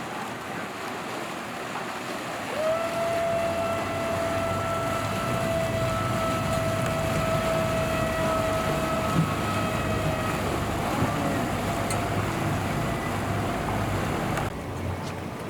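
Motorboat engine running past, with a steady whine that comes in a few seconds in and fades after about ten seconds, over wind and water noise. The sound drops off abruptly near the end.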